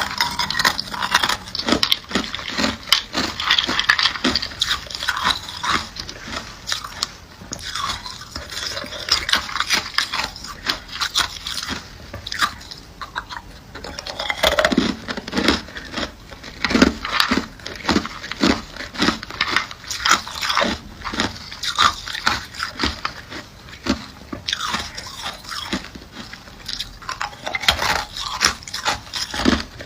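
Ice being bitten and chewed close to the microphone: repeated crisp crunches and crackles, with a stretch of steady, regular chewing strokes in the middle.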